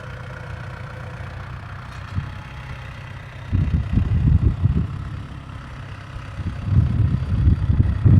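Tractor engine running steadily at low revs, with gusts of wind buffeting the microphone from about halfway through.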